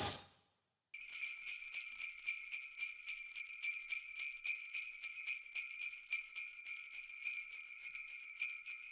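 Sleigh bells jingling in a steady shaken rhythm, starting abruptly about a second in after a train sound fades out.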